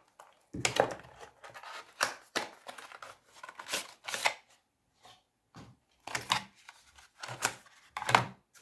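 Hands handling small laptop parts on a workbench: irregular rustles, clicks and light knocks, a few heavier thuds near the end.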